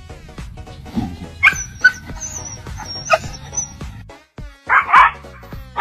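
A dog barks twice near the end, loud and short, over background music; thin high squeaks come before the barks.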